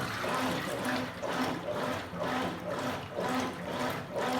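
Consul Supercargo 8 kg top-loading washing machine agitating a load of towels in water: water sloshing in regular surges about twice a second, with the motor's hum coming and going at each stroke. The owner suspects the drive belt is a little slack.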